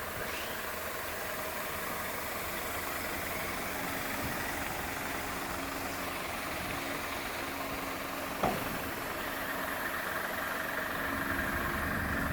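Scania 580 S V8 diesel truck engine running steadily, with one short sharp click about eight and a half seconds in.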